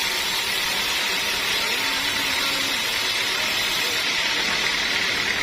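Sawmill machinery running with a steady, even mechanical noise and no breaks.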